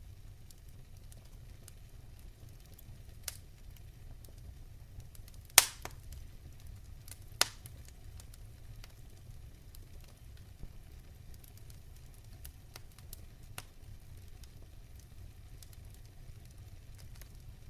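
Fire crackling in a fireplace: a steady low rumble under scattered sharp pops. The loudest pop comes about five and a half seconds in, and another comes about two seconds later.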